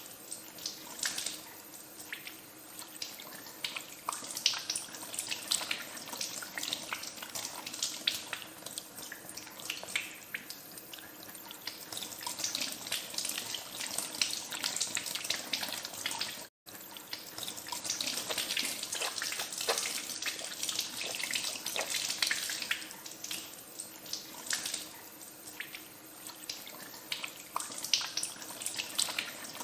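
Tap water running into a sink while hands are washed under it, a steady splashing hiss with irregular small splashes. The sound cuts out for an instant a little past halfway, then goes on.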